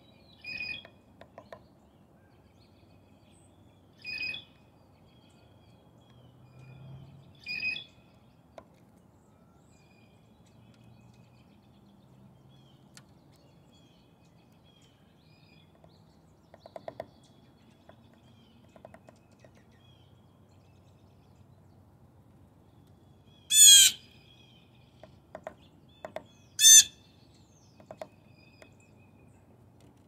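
Bird calls: three short calls in the first eight seconds, then two much louder calls near the end. In between, soft scattered taps of a downy woodpecker pecking at a seed-filled suet cake.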